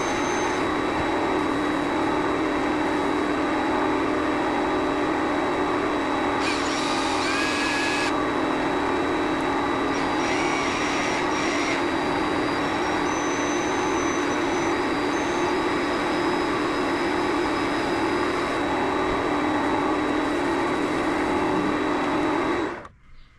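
Vevor MX400 mini lathe running under power, turning a brass workpiece: a steady motor hum with a constant high whine, and short higher-pitched tones that come and go several times as the tool works the piece. The lathe switches off near the end and the noise drops away suddenly.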